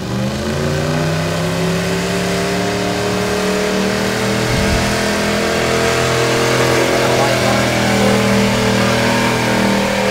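Old Ford pulling truck's engine revving up over the first second, then held at high revs under heavy load during a truck pull.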